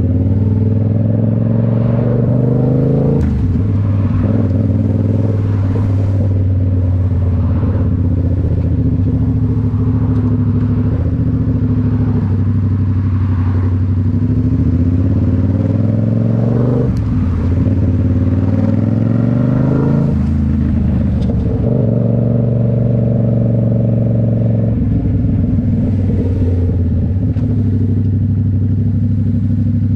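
Yamaha MT-07's 689 cc parallel-twin engine running through a Toce full exhaust on the move, mostly at steady revs. The revs drop sharply a few seconds in, dip and then climb again past the middle, and change once more near the end.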